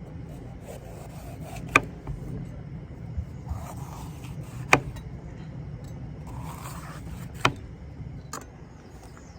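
Cookware and utensils handled while cooking: four sharp clinks spaced a few seconds apart and some soft scraping, over a steady low hum.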